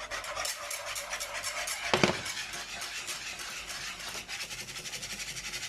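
Whisk beating a thickening flour-and-milk roux in a saucepan: fast, steady scraping strokes against the pan, with one sharper knock about two seconds in.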